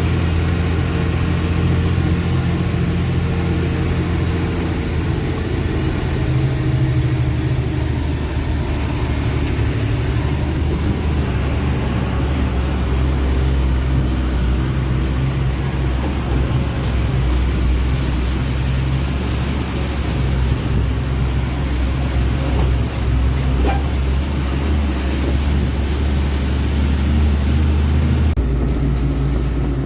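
Heavy diesel engine of working construction machinery running steadily under load, from a backhoe loader or a dump truck. Its character changes abruptly near the end.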